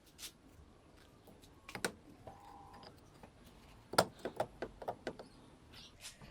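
Scattered light clicks and knocks of small parts and tools being handled on a workbench, with the loudest knock about four seconds in, followed by a quick run of smaller taps.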